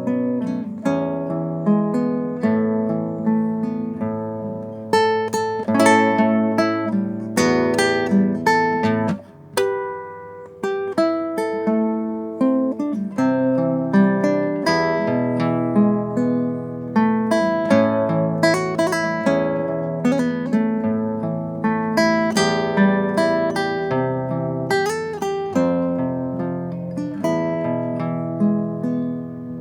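Solo acoustic guitar playing an instrumental melody of picked notes and strummed chords, with no singing. It dips briefly quieter about nine seconds in.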